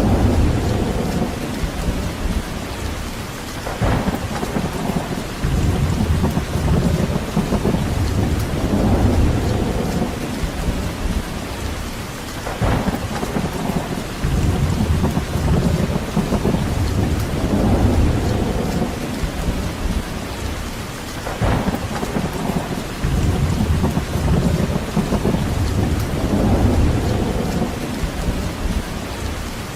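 Steady rain falling, with low rumbling swells rising and fading every few seconds.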